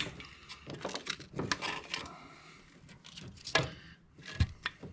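Scattered clicks, snaps and knocks of cutters and hand tools working on the engine's vacuum hose lines, with a louder knock about three and a half seconds in.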